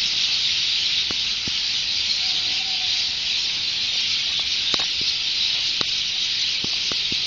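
A large gathered flock of birds chattering all at once, blending into a steady, high, hiss-like din, with short sharp chirps standing out here and there.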